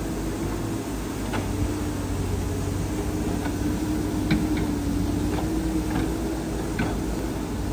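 Shantui bulldozer's diesel engine running steadily with a slightly wavering note, with several sharp clanks at irregular intervals.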